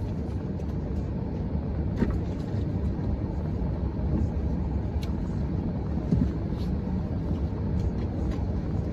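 Steady low rumble of a car, with a few light clicks and knocks, about 2, 5 and 6 seconds in.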